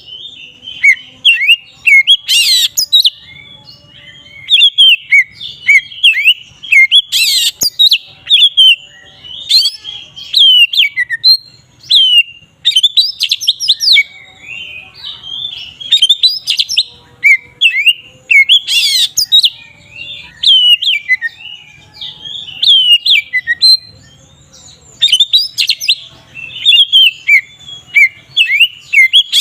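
Oriental magpie-robin (kacer) singing a long, loud, varied song of rapid whistled notes that slide up and down, broken by a few short harsh notes.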